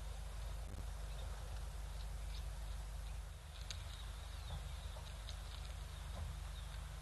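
Wind buffeting an outdoor wildlife-camera microphone: a steady low rumble under a constant hiss, with a few faint, short, high chirps scattered through.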